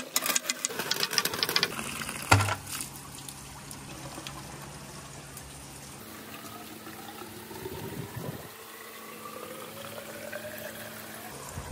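A quick clatter of glass marbles ending in a heavy knock about two seconds in, then water running into a container, its note slowly rising as the container fills.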